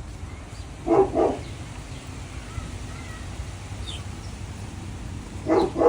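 Dog barking: a quick pair of barks about a second in and another pair near the end.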